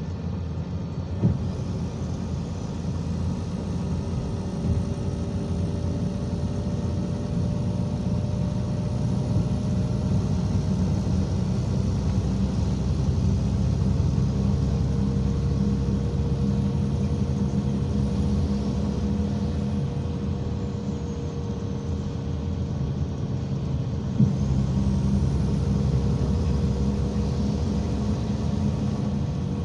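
IVECO Crossway 13M PRO city bus under way, heard from inside: a steady low engine and road drone with faint whining tones that slowly drift in pitch. Two sharp knocks, one just after the start and one about three-quarters of the way through.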